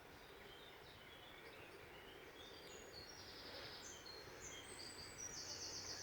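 A songbird singing faintly: a run of short high notes, with a fast trill about three seconds in and another near the end.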